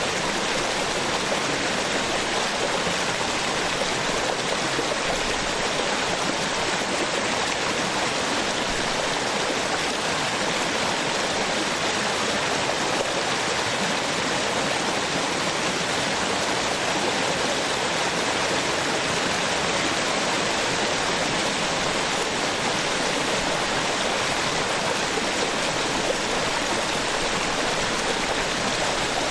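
Small waterfall on a stream, water falling and splashing in a steady, unbroken rush.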